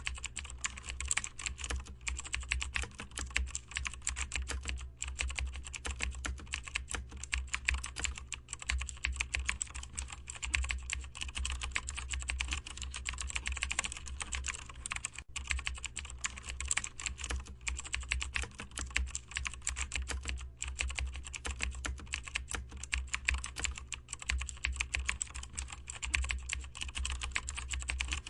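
Computer keyboard being typed on rapidly and continuously, a dense stream of key clicks with only brief pauses, over a low steady hum.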